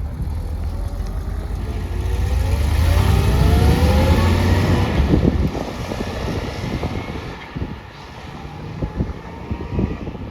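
A car engine running with a heavy low rumble and rising in pitch as it accelerates, then dropping away about halfway through, leaving a few light knocks.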